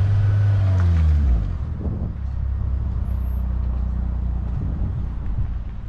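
Manual-transmission car engine held at raised revs for a hill start, the revs dropping about a second in as the clutch takes up, then running at a steady lower note as the car creeps forward.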